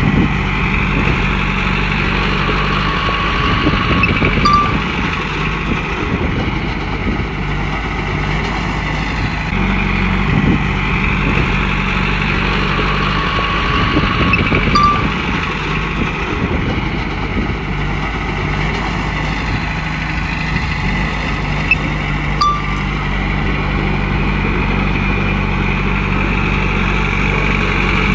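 Komatsu bulldozer's diesel engine running under load, with track and machine noise that swells and eases in a cycle of about five to six seconds as the dozer works back and forth.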